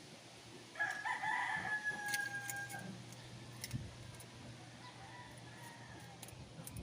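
A rooster crowing once, starting about a second in and lasting about two seconds, with a fainter crow later. A few light clicks are heard meanwhile.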